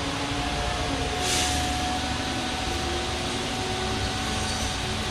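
Interior of a Walt Disney World transportation motor coach while it drives: a steady low rumble with a steady whine, and a brief hiss about a second in.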